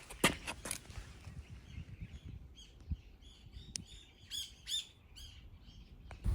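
Small birds chirping in a quick series of short calls, with a few sharp clicks in the first second.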